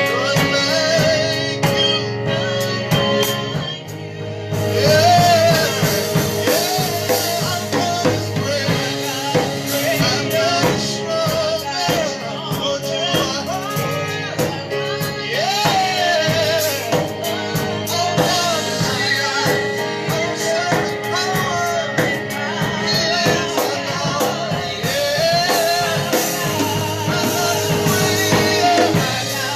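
Worship song: singing over a band with drum kit and guitar. The music gets fuller and louder about four seconds in.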